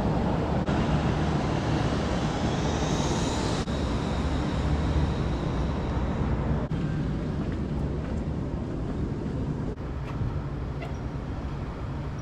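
Steady low rumbling noise, briefly broken by a few abrupt cuts.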